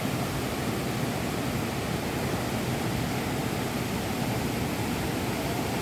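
Steady rushing noise of a river in flood.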